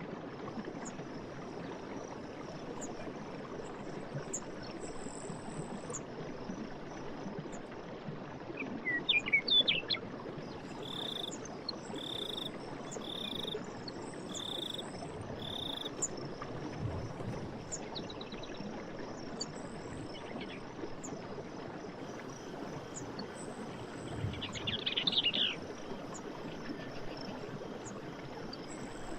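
Running stream water with birds calling over it: a quick chirping call about a third of the way in, the loudest moment, then five evenly spaced short whistled notes, and a rapid trill near the end. A faint, steady high insect-like hum sits under the birds.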